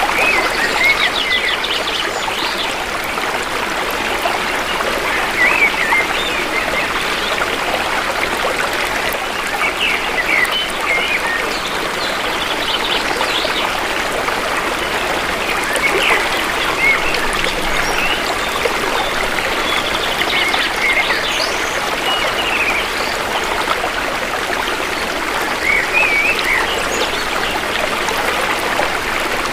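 Shallow river flowing steadily with a continuous trickling rush, while birds chirp in short calls now and then.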